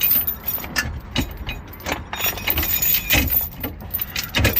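Metal safety chain clinking and rattling against the RV's spare wheel as it is worked through the rim, in irregular knocks.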